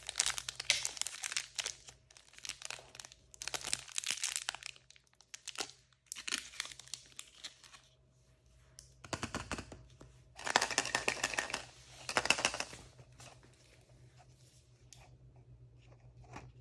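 Crinkly plastic packaging of blind-bag toys being torn open and crumpled by hand, in a series of rustling, tearing bursts that trail off to faint handling near the end.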